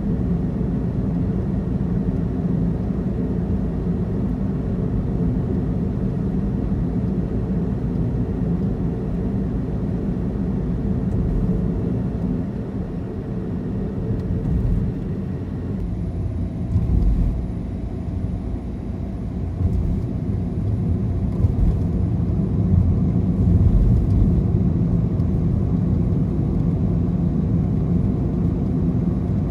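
Car driving, with a steady low rumble of engine and tyres on the road. It eases off about halfway through, then picks up again.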